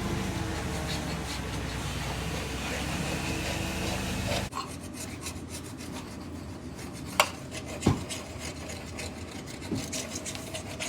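Belt conveyor running with a steady hum and a rubbing, rasping noise, then shutting off abruptly about four and a half seconds in. After that come lighter rubbing and handling noises, with two sharp knocks.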